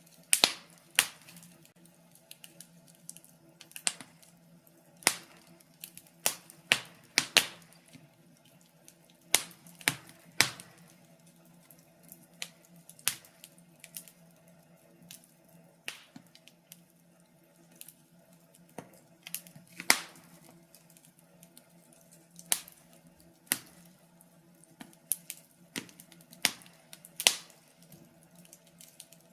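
Wood fire crackling: irregular sharp pops and snaps, sometimes in quick clusters, sometimes several seconds apart, over a faint steady low hum.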